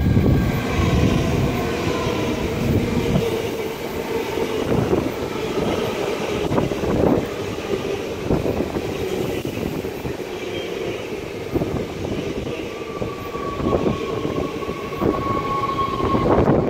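NS Sprinter Light Train electric multiple unit pulling in and braking to a stop: a rumbling run of wheels on rail with a whine of several held tones that slowly fall in pitch as it slows, and a few short clicks over the rails.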